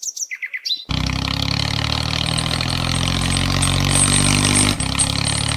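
A few quick bird chirps, then an engine starts running steadily about a second in, with a brief break near the end before it carries on.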